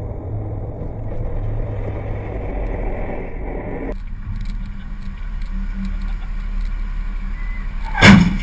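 Steady low rumble of a car driving, as heard from inside the vehicle, which changes abruptly to a different road noise about four seconds in. A single sudden loud bang follows near the end.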